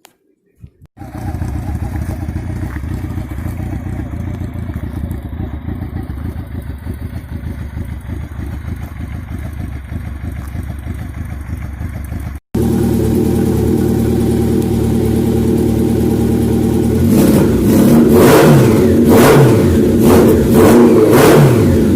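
Honda CB750-based custom motorcycle's inline-four engine running steadily. After a cut it runs louder and is revved up and down several times in the last few seconds.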